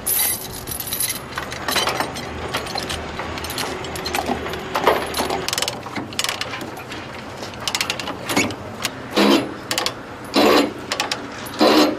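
Steel tie-down chains clinking and clanking while a ratchet chain binder clicks to tighten them, with several short runs of rapid ratcheting in the second half.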